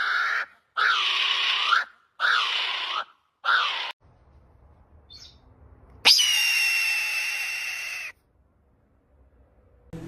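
Bird calls: three harsh screeching calls in quick succession, then after a short pause one long, piercing pitched scream that starts abruptly and fades away.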